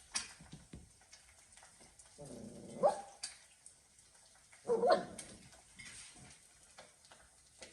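A poodle gives two short calls about two seconds apart, each rising in pitch.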